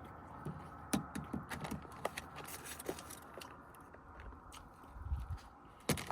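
A person eating mussels: chewing, with irregular small clicks and scrapes and a sharper click near the end.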